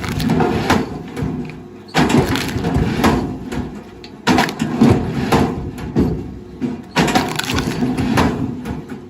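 Wood cracking, crushing and splintering in repeated loud bursts, a new one starting about every two and a half seconds.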